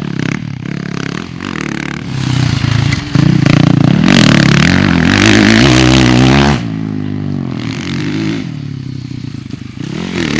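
Motocross bike engine revving hard with rising and falling pitch, loudest in the middle, then the throttle shuts off abruptly about two-thirds through and the engine drops to a lower, quieter note.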